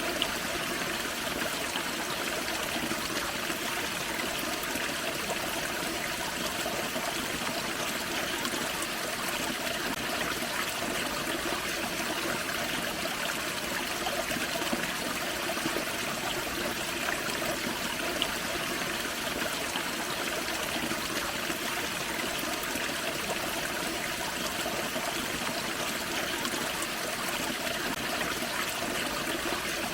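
Forest creek splashing and trickling over a small waterfall, a steady rush of running water.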